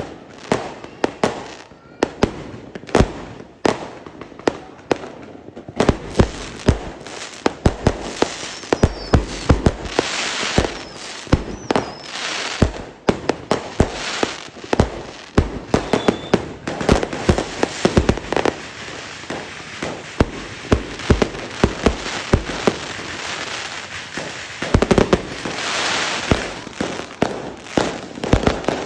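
Fireworks going off in a rapid, continuous series of sharp bangs, with swells of dense crackling about a third of the way in and again near the end.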